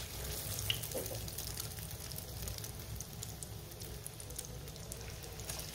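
Egg-and-breadcrumb coated snack sizzling and crackling in hot ghee in a frying pan, starting as it is laid in, with a steady hiss and many small pops of spitting fat.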